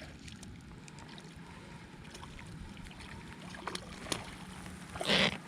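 Small fishing boat on the water: a steady low hum with faint scattered ticks, and a brief louder burst of noise about five seconds in.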